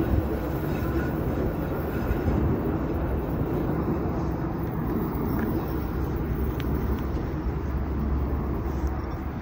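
DART light rail train running past on the tracks, a steady rumble of wheels and motors that holds an even level throughout.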